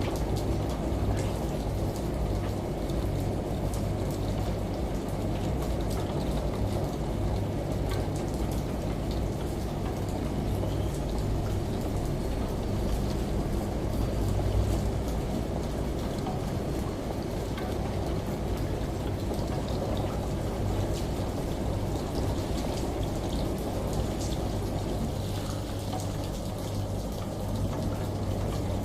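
Steady rain and running water layered over a low, steady washing-machine hum, with scattered droplet ticks.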